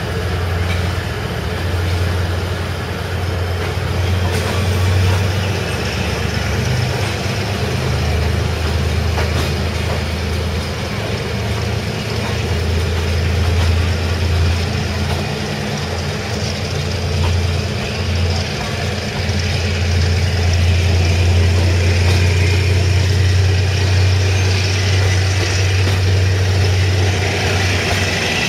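Passenger train running: a steady low drone that swells and fades a little, over a wash of noise.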